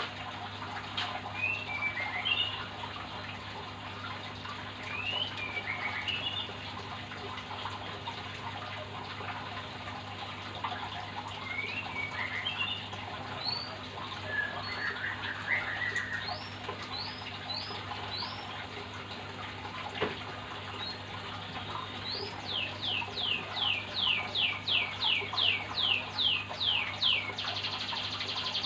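Oriental magpie-robin (kacer) singing: short varied whistled phrases, then, from about two-thirds of the way in, a fast run of repeated notes, each sweeping downward, about three a second.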